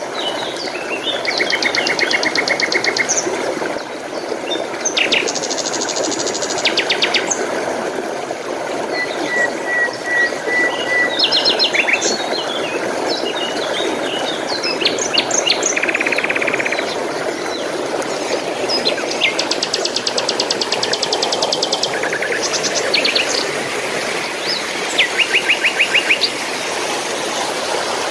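Small songbirds singing, several fast trills of rapidly repeated high notes and short chirps, over the steady rush of flowing water.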